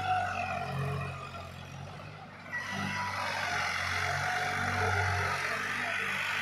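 Diesel tractor engine running. The sound dips briefly and rises again sharply about two and a half seconds in.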